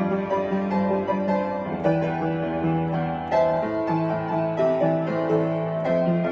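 Piano playing a slow melody over sustained chords, notes overlapping with the sustain.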